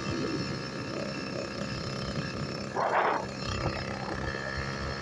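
Motorized bicycle's small engine running at a steady pitch under way, with rough rumbling noise beneath it. A short, louder rushing burst comes about three seconds in.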